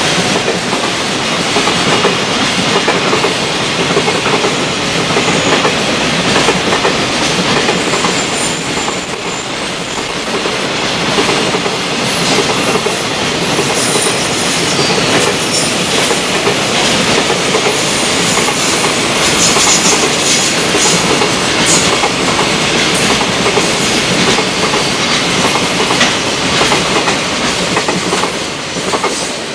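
Long freight train of container wagons passing, wheels clattering over the rail joints, with a thin high wheel squeal through much of it.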